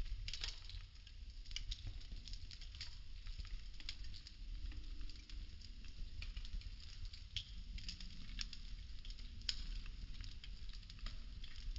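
Burning wooden popsicle sticks crackling, with frequent irregular small sharp pops over a steady low rumble.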